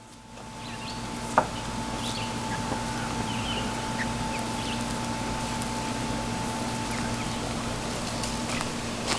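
Outdoor ambience: a steady hum with faint, short bird chirps scattered through, and a single sharp knock about a second and a half in.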